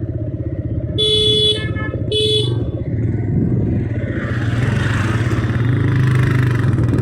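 Motorcycle engine running steadily while riding, with a vehicle horn honking twice, briefly, about one and two seconds in. A rushing noise swells after about four seconds.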